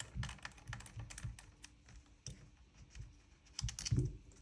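Irregular small clicks and taps of a hex key and metal parts being worked on an airsoft gun's lower receiver while the fire mode selector screw is undone, with a louder knock near the end.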